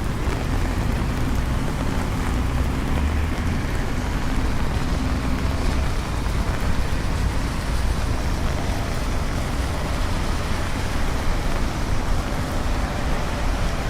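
Steady rain falling over a low, continuous rumble of city traffic.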